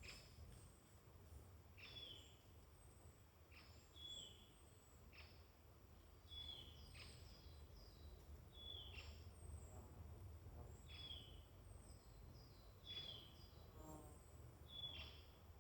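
Faint woodland birdsong: one bird repeats a short call that sweeps down and levels off every second or two, while another gives thin, very high notes. A low, steady rumble runs underneath.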